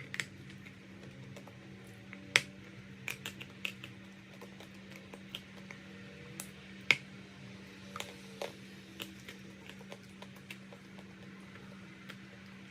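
Chalk being crunched: irregular sharp crunches and clicks, a dozen or so, with two louder snaps, over a steady low hum.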